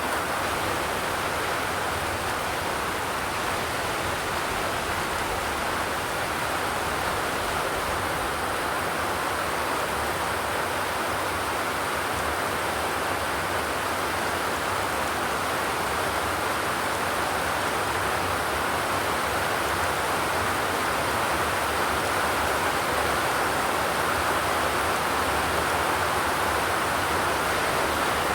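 Steady rain, an even hiss without drops or thunder standing out.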